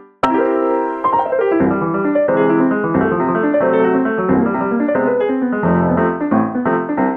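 Background piano music: a steady run of struck notes, resuming after a brief break just after the start.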